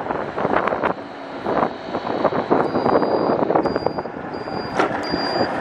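Wind buffeting the microphone and road noise from an e-bike being ridden. A faint high beep repeats four times in the second half.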